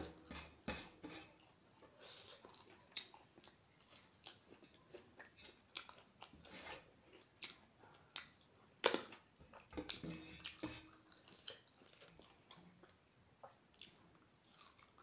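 Close-miked chewing of a person eating rice and spicy pork fry by hand: irregular small clicks and mouth noises, with a sharper click about nine seconds in.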